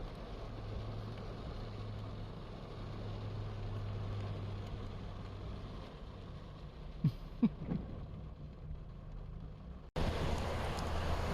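Steady low vehicle engine hum under wind on the microphone, with a few brief sounds about seven seconds in. Near the end it cuts to a louder rushing noise of wind and water.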